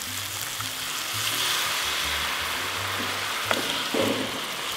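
Rooster pieces sizzling in an enameled cast-iron pot as orange juice is poured in over them. A wooden spoon then stirs the pieces, with a couple of knocks against the pot near the end.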